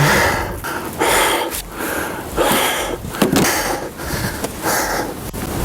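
A man breathing hard from the exertion of shoveling snow, a noisy breath roughly every second.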